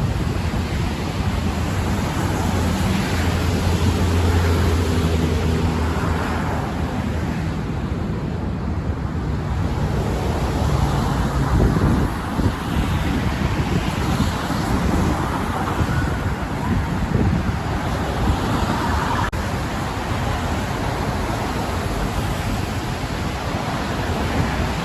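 Steady road traffic with wind on the microphone. A low hum from a passing vehicle swells a few seconds in and fades.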